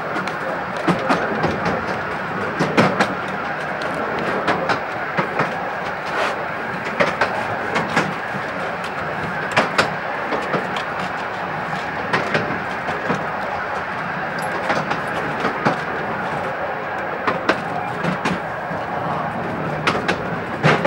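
Miniature railway train running along the track, heard from inside a passenger carriage: a steady rumbling noise broken by frequent, irregular sharp clicks and knocks from the wheels on the rails.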